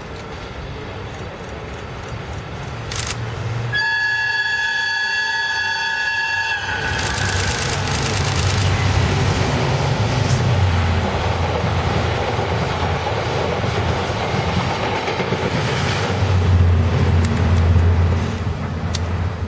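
A JR electric locomotive sounds its horn once, for about three seconds, as it approaches. It then passes at high speed hauling a train of blue passenger coaches, with a heavy rumble and clatter of wheels on the rails that builds and peaks shortly before the end.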